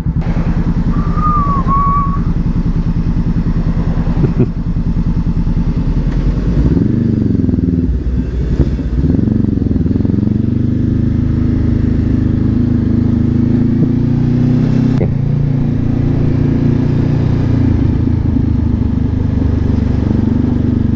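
Honda CB500F parallel-twin engine ticking over steadily, then pulling away about six seconds in. Engine speed rises and dips through gear changes before settling into a steady cruise. A short high chirp sounds about a second in.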